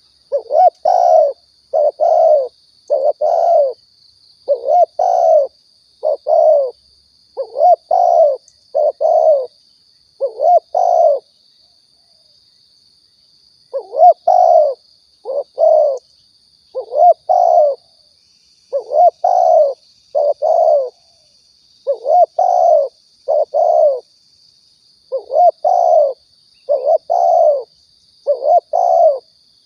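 Spotted dove (tekukur, balam) song: short grouped coos repeated over and over at an even pace, with one pause of about two seconds in the middle. It is a dove call recording used as a lure for trapping or hunting.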